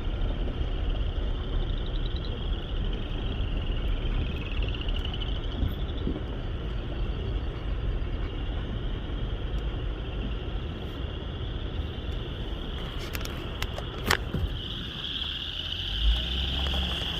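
Loud chorus of marsh frogs calling, a dense high trilling that swells louder near the end. It is heard through an open car window over the low rumble of the car, with a few sharp clicks about two-thirds of the way through.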